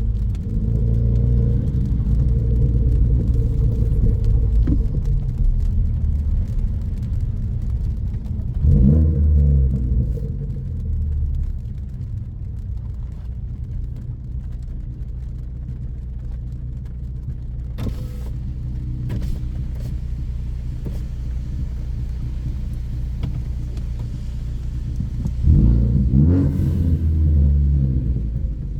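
Tuned 2014 Ford Focus ST's 2.0-litre turbocharged four-cylinder, fitted with a high-flow catted downpipe and a straight 2.5-inch exhaust, driving along with a low, steady drone. The engine note swells and its pitch climbs and falls about nine seconds in and again near the end as the car accelerates.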